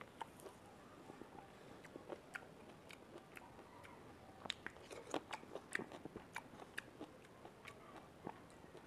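Chewing juicy orange segments up close: faint, scattered wet mouth clicks, thickest around the middle.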